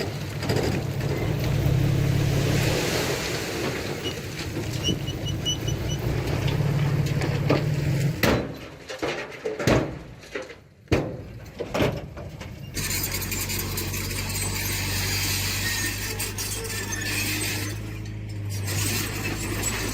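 Diesel engine of heavy earthmoving machinery running under load, with a few short high squeaks about five seconds in. Partway through, the engine sound breaks up into sharp knocks and clatter for a few seconds, then a steadier, lower engine drone takes over.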